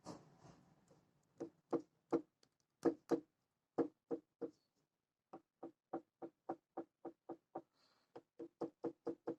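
Dry ball joint of a Chevrolet Aveo's front stabilizer link creaking and knocking as the link is worked back and forth: a run of short, sharp clicks with a slight ring, uneven at first, then, after a brief pause, about three a second. The dry joint is the cause of the suspension noise heard when turning the steering wheel.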